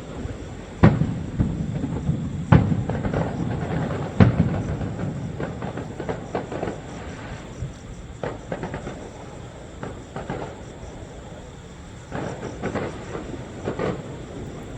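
Aerial fireworks bursting: three loud bangs in the first four seconds, each trailing off into crackling, then smaller scattered pops and crackles over a steady rumble.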